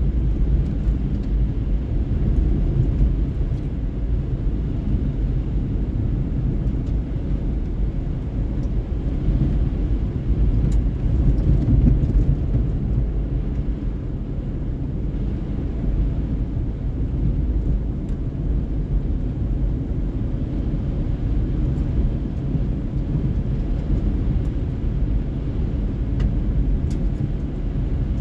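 A car driving at a steady pace, making an even low rumble of road and engine noise.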